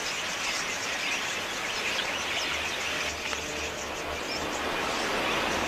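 A large flock of budgerigars chattering, a dense steady mass of many overlapping high chirps.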